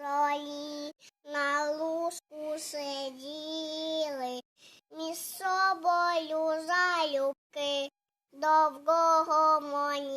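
A young girl singing unaccompanied, with held notes that glide in pitch and short silent breaks between phrases.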